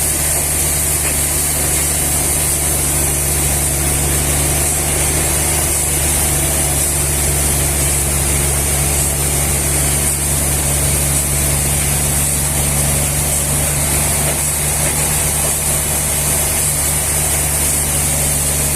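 A machine running steadily, a low engine-like hum under a constant high hiss, with no change in speed or load.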